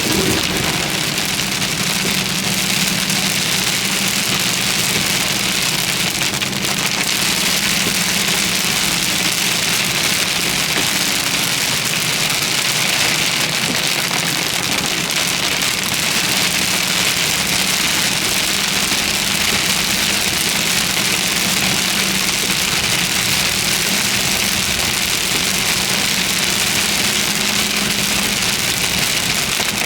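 Steady rain falling on a vehicle, with a low, steady engine hum underneath.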